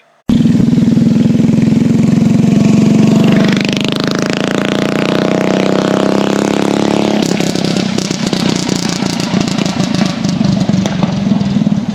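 Small single-cylinder mini bike engine running hard. The sound cuts in abruptly, rises and falls in pitch over a few seconds in the middle, then runs on with a rougher, crackling note.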